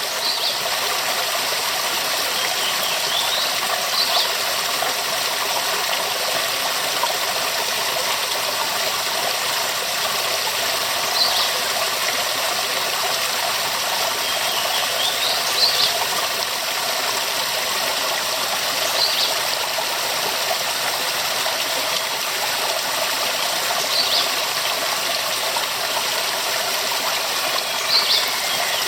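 Waterfall: a steady rush of falling water, with short high-pitched sounds every few seconds above it.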